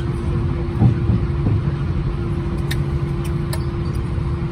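Steady low vehicle rumble with a constant hum, a couple of small bumps about a second in, and a few faint clicks.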